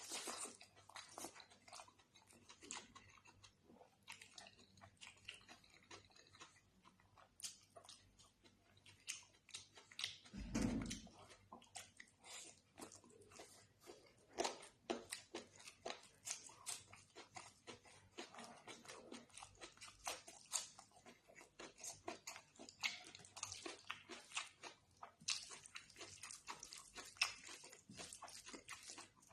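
Close-miked eating sounds from chicken curry with rice: chewing, wet mouth clicks and smacks throughout. A low thump comes about ten seconds in.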